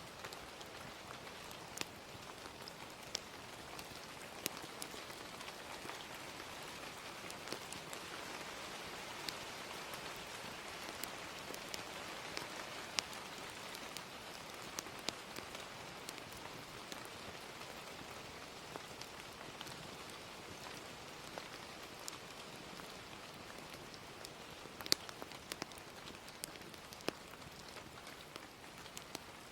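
Steady gentle rain ambience with scattered sharp pops and ticks, fire crackling mixed in with the rain.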